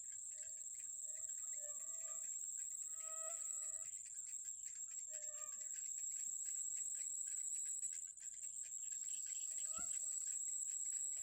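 Bird calling in short, low, level notes, about a dozen of them, most in the first half and again near the end, over a steady high-pitched buzz.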